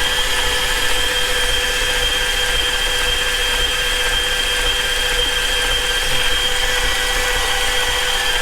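Electric starter motor cranking the BMW F90 M5's twin-turbo V8 in one long, steady whine. The engine turns over without catching.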